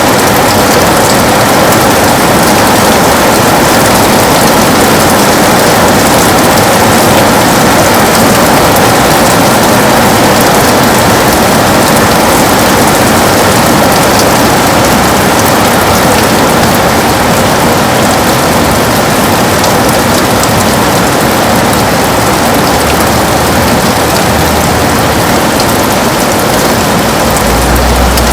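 Heavy rain falling steadily on a window: a dense, even hiss of drops with fine pattering impacts. A low rumble comes in near the end.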